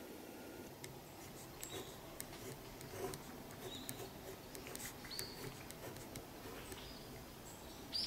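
Small birds chirping faintly: a few short, high chirps scattered through, over a faint steady background hiss.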